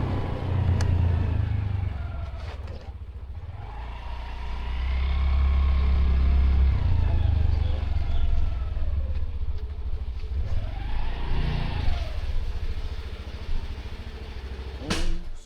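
Motor vehicle engine running with a deep rumble, its pitch rising and falling as revs change, loudest around the middle.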